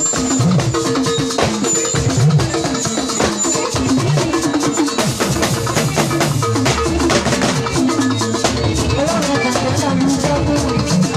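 Live gospel band music with a drum kit and percussion keeping a steady beat.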